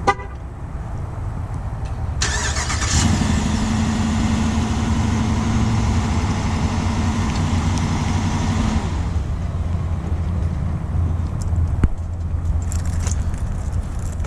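2021 Dodge Durango R/T's 5.7-litre HEMI V8 being remote-started from the key fob. A short horn chirp comes right at the start. About two seconds in the starter cranks and the engine catches into a raised cold-start idle, which drops back near nine seconds to a steady low idle.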